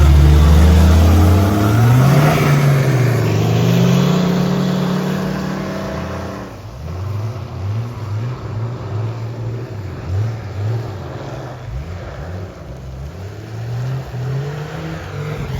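Off-road 4x4 mud drag vehicle's engine revving hard, its pitch climbing and falling. About six and a half seconds in it drops suddenly to quieter, repeated short throttle blips.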